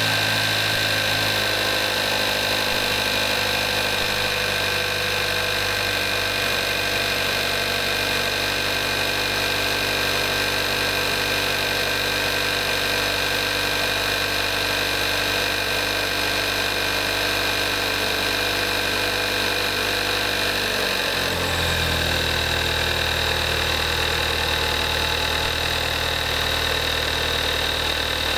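2014 Kia Forte5's 2.0 GDI gasoline direct-injection four-cylinder engine idling steadily just after a cold start. It has 38,300 miles and runs synthetic 5W-20 oil. About three-quarters of the way through, the idle drops to a lower, deeper pitch as the cold-start fast idle settles.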